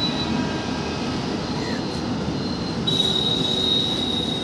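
Passenger train running over the yard tracks: a steady rumble of the wheels with a thin high wheel squeal that grows loud about three seconds in.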